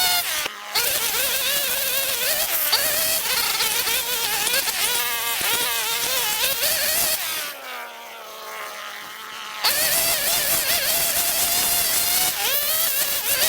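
String trimmer motor running at high speed with a buzzing, wavering pitch as it cuts. About seven and a half seconds in it eases off, the pitch falling, and about two seconds later it is throttled back up to full speed.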